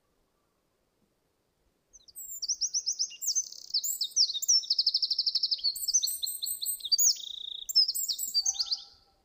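A songbird singing one long, fast song of rapid high trills and chirps, starting about two seconds in and ending shortly before the end.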